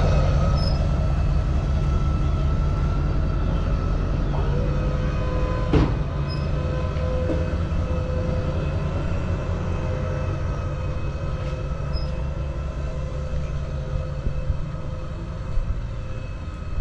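A motor vehicle or machine engine running steadily with a low drone. A steady whine joins in about four and a half seconds in, and there is a single knock near six seconds.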